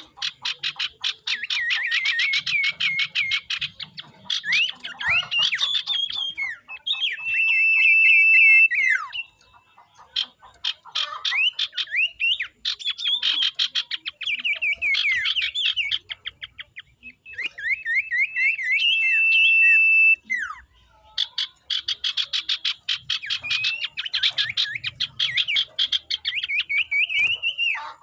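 Common ioras calling in fast, overlapping chattering runs of sharp notes from more than one bird, with a long steady high whistle held twice, once near the middle and once later.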